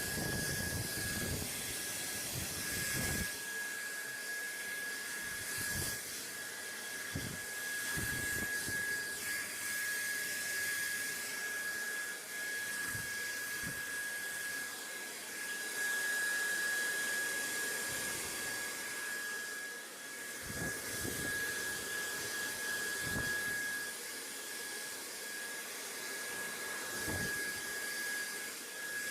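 Steady rushing white noise with a thin constant whistle in it, and brief low rumbles every few seconds.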